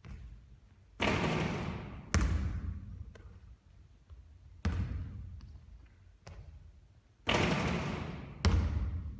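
Basketball bouncing hard on a court during three-point shooting practice: three sharp bounces a few seconds apart, and between them two longer noisy sounds of about a second each.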